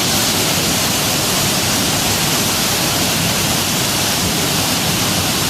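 Avalanche Creek cascading over small falls and rapids in a narrow rock gorge: a loud, steady rush of water.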